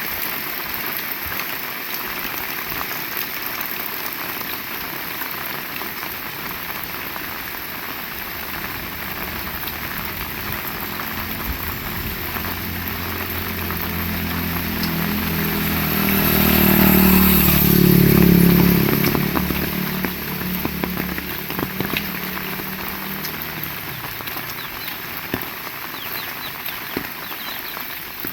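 Heavy rain falling steadily. A motor vehicle approaches, passes by a little past the middle, loudest then, and fades away again.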